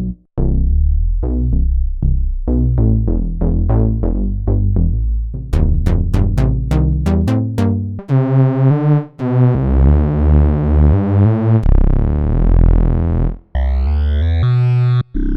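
Roland System-100 software synthesizer presets being played: repeated short, decaying bass notes, then a quick run of bright staccato notes, then held notes whose tone slowly shifts and wavers. After a brief gap near the end a new patch comes in with its brightness sweeping up and down.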